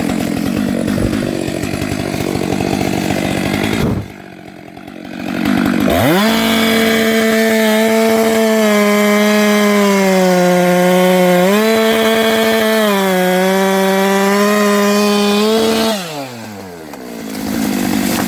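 Chainsaw engine running. The throttle drops off about four seconds in, then it revs up to a high, steady pitch for about ten seconds, rising and settling back once midway, and falls away to the lower, rougher running near the end.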